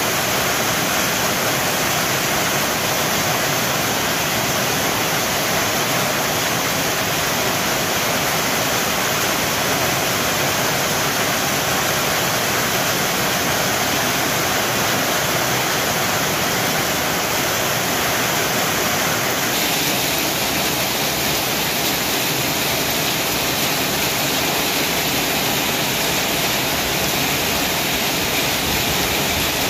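Heavy rain pouring down onto wet pavement, a dense, steady hiss. Its tone changes slightly about twenty seconds in.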